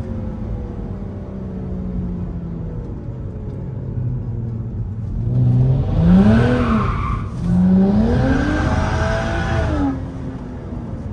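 BMW 335i's turbocharged straight-six, first easing off with falling revs, then revved hard twice from about halfway, the revs dropping again near the end. During the revving the tyres squeal as the car slides, a hiss that stops just before the end.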